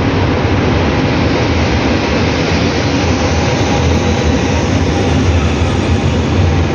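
TGV high-speed train running into the station, a steady, loud noise of wheels and motors with a low hum.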